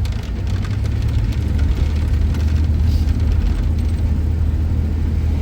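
A car driving: a steady low drone of engine and road noise.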